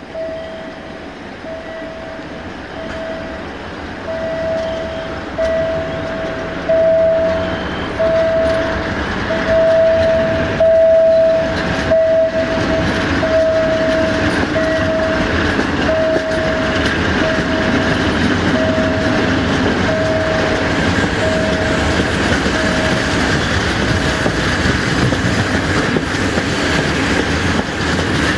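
A passenger train hauled by a 060-DA (LDE2100) diesel-electric locomotive, heard from an open coach window: steady running noise of wheels on rail that grows louder over the first ten seconds. Over it a level-crossing warning signal beeps about once a second on one steady tone. The beeps swell as the train passes the crossing and fade out a few seconds before the end.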